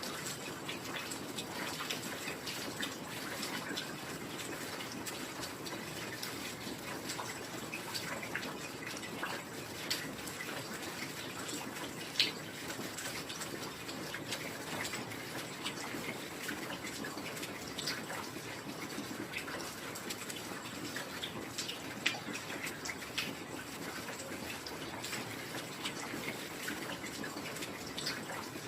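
Steady heavy rain, an even hiss with scattered sharp drips and drop impacts.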